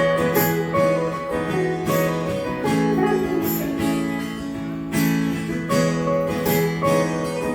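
Acoustic guitar strumming chords, with a fresh chord struck about every second and a half, in an instrumental break between sung verses.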